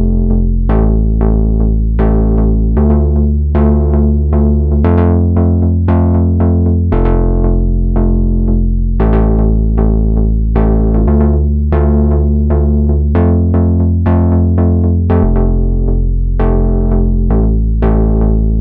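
Moog Subharmonicon synthesizer playing a bassy sequenced patch: short plucked notes about twice a second over deep bass notes that step to a new pitch every two seconds or so, in a pattern that repeats about every eight seconds.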